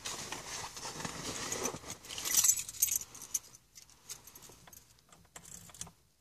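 A bunch of keys jangling, with several sharp clicks about two and a half seconds in, then lighter scattered clicks that fade out near the end.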